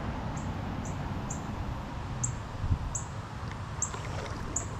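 Short high chirps repeating about every half second to second, a small bird calling, over a steady low background rumble.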